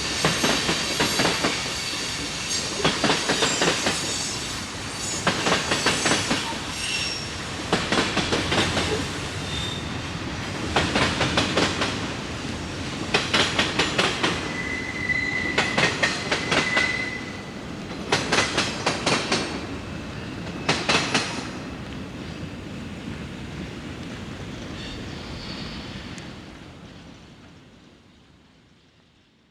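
Train cars rolling past, their wheels clicking over rail joints in quick clusters every couple of seconds, with a brief wheel squeal in the middle. The sound fades out near the end.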